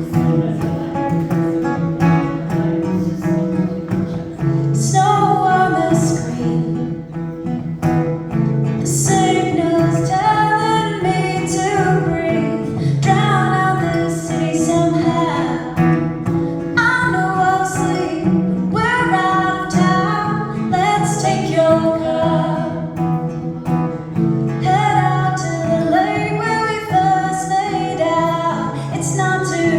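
A song played on guitar, with the guitar alone at first and a voice starting to sing about five seconds in.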